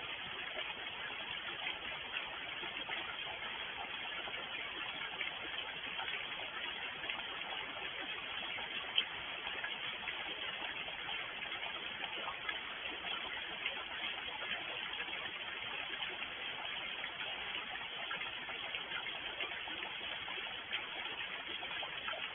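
Steady rain falling, an even hiss with a dense patter of drops.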